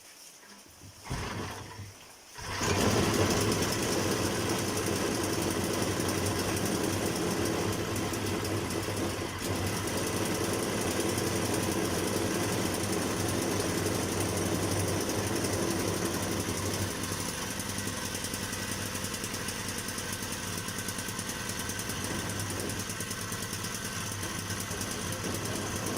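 Hyundai portable generator engine starting up about two seconds in, then running steadily; the generator is known to make a sharp metallic noise from inside.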